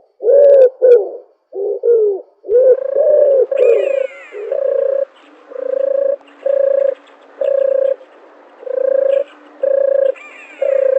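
Dove cooing: first a few wavering, bending coos, then a run of short, steady coos about every three-quarters of a second. A higher, falling call cuts in briefly twice, a few seconds in and near the end.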